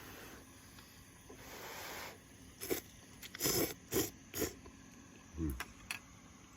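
Someone eating instant Chicken Ramen noodles: a soft drawn-in sound, then a run of four or five short slurps about three to four and a half seconds in.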